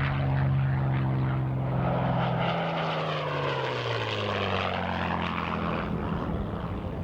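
P-51 Mustang's Merlin V12 engine in a flyby: a loud, steady engine drone whose pitch drops as the plane passes, about two to three seconds in, then runs on slightly quieter as it moves away.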